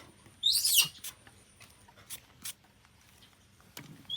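A monkey's short, high-pitched squeal about half a second in, followed by a few faint clicks and a brief high squeak near the end.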